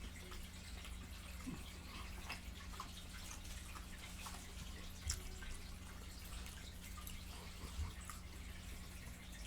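Close-miked chewing of fried chicken: a run of small wet mouth clicks and lip smacks, with two sharper smacks about five seconds in and near the end. A steady low electrical hum sits underneath.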